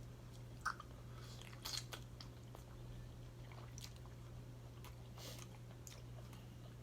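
A person chewing and biting food close to the microphone: faint, scattered smacks and soft crunches every second or so, over a low steady hum.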